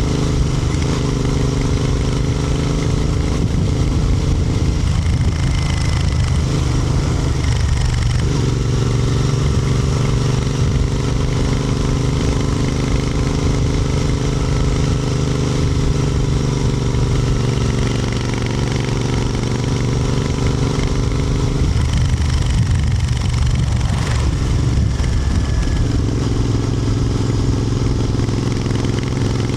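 Royal Enfield Interceptor 650 parallel-twin engine running steadily. Its note shifts and wavers about five seconds in and again a little past twenty seconds before settling back to a steady pitch.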